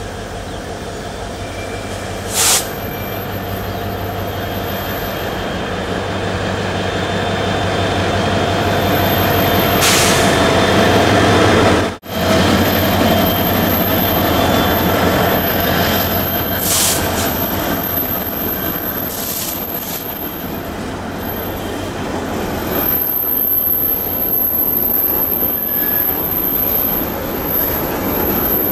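Several diesel locomotives hauling a Babaranjang coal train pass close by, their engines running with a steady rumble that grows louder. A thin high-pitched wheel squeal from the curve comes and goes, with a few short metallic clanks. After about twenty seconds the engine hum fades as the wagons roll past.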